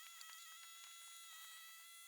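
Near silence, with only a faint, steady high whine.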